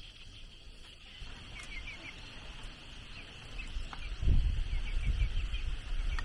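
Birds chirping in short quick runs of falling notes over a steady high insect drone; from about four seconds in, a loud low rumble on the microphone covers it.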